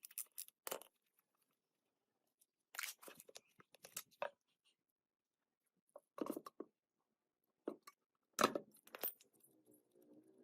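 Small metal parts and tools being handled during gearbox work: short scattered clinks and scrapes, about half a dozen brief bursts with gaps between them.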